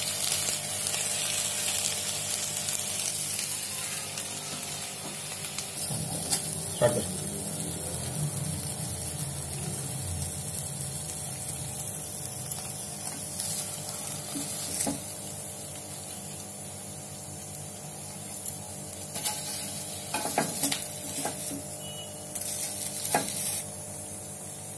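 Chicken drumsticks sizzling in a pan of soy-sauce glaze, the sizzle slowly dying down. A few sharp clinks of metal tongs against the pan and a steel plate come as the pieces are lifted out.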